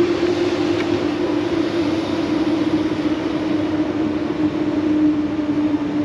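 Passenger train running, heard from inside the carriage: a steady rumbling noise with a hum that slowly drops a little in pitch.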